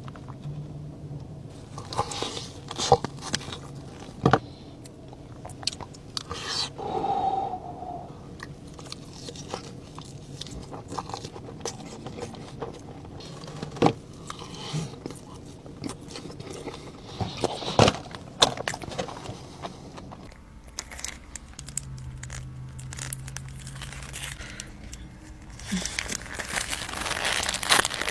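Close-miked eating of In-N-Out fast food: crunchy bites and chewing with scattered sharp crunches. A paper wrapper crinkles near the end.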